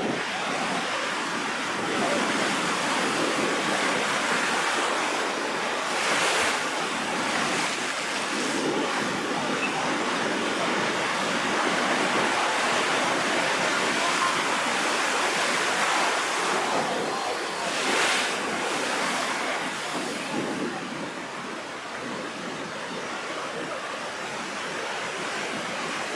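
Rough sea surf stirred up ahead of a typhoon: waves breaking and washing continuously, with two louder crashes about six and eighteen seconds in, easing a little near the end.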